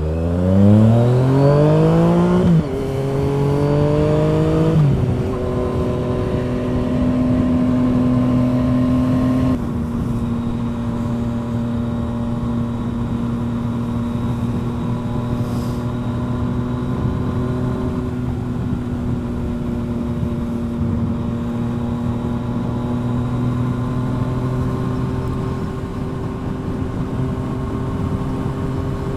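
Yamaha FZ-09's inline-three engine through a full M4 exhaust, accelerating hard through two upshifts in the first five seconds, then running at a steady cruise.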